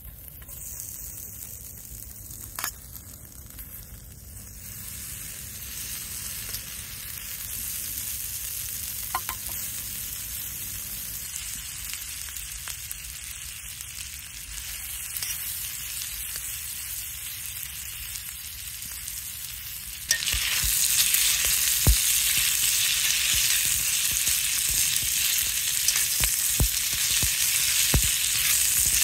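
Offal (horumon) sizzling in an iron frying pan: a steady frying hiss that slowly grows louder, then jumps to a much louder close sizzle about twenty seconds in. Near the end come a few sharp clicks as metal tongs turn the pieces in the pan.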